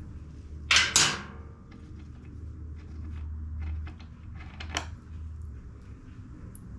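Two sharp clattering knocks about a second in, followed by scattered light clicks of tools and blower parts being handled, over a low steady hum.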